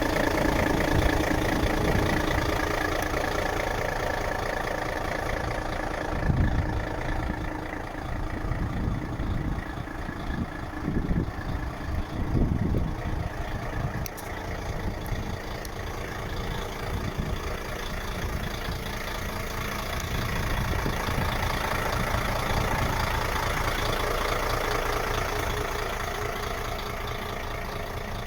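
Mercedes-Benz Actros 2536 truck's V6 diesel engine idling.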